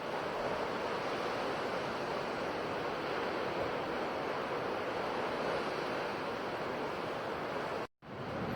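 Ocean surf washing steadily onto a shore. Near the end it cuts out to silence for a split second, then fades back in.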